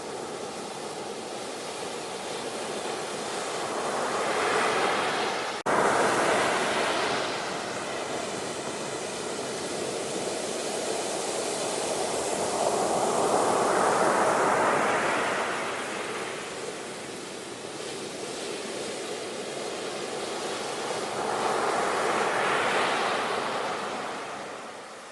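Ocean waves washing in on a shore, swelling and falling away three times in slow succession, with a brief break in the sound about five seconds in.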